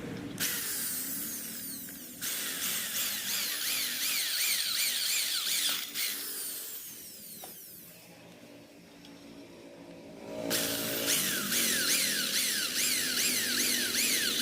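Electric drill boring through a motorcycle exhaust's catalytic converter, the bit grinding on metal in runs of a few seconds. It eases off and goes quiet for a couple of seconds past the middle, then starts drilling again.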